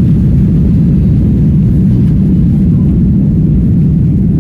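Passenger airplane landing: a loud, steady low rumble of engines and airflow.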